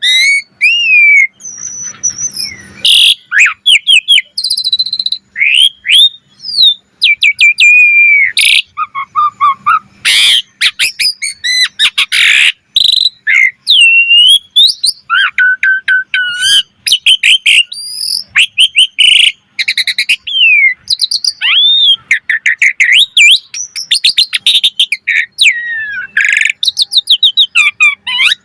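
Asian pied starling (jalak suren) singing a long, unbroken, varied song: clear gliding whistles mixed with fast runs of harsh, rasping notes and clicks.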